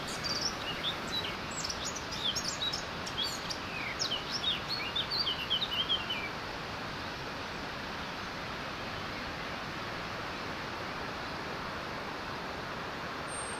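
Small songbirds chirping and tweeting over a steady rush of water. The birdsong stops about six seconds in, leaving only the water.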